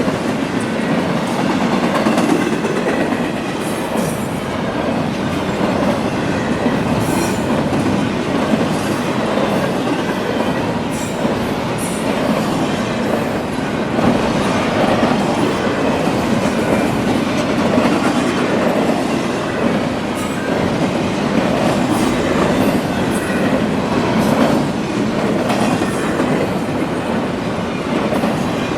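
Freight train cars rolling past at steady speed, wheels clacking over the rail joints, with brief high squeals from the wheels now and then.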